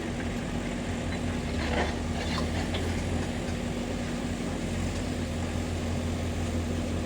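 Diesel engines of heavy earthmoving machines, a backhoe loader and a tracked excavator, running steadily with a constant low hum.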